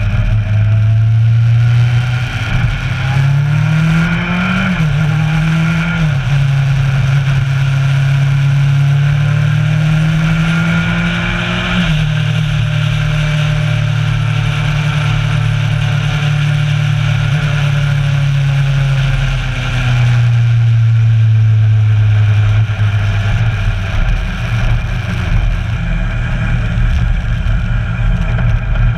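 Kawasaki Versys 1000's inline-four engine running under way, heard from a camera mounted on the bike. The engine note climbs with the throttle over the first few seconds, drops sharply about twelve seconds in at a gear change, then holds steady at cruising speed before easing lower near twenty seconds in.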